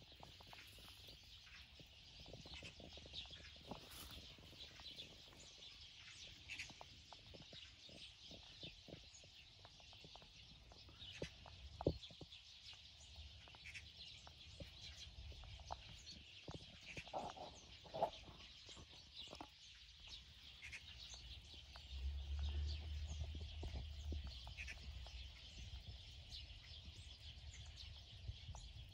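Faint outdoor ambience with small birds chirping on and off, two light knocks partway through, and a low rumble near the end.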